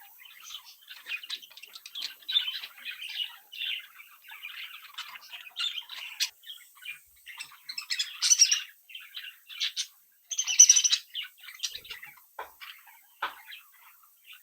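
A flock of budgerigars chattering and warbling in a constant stream of chirps, with two louder squawking outbursts past the middle.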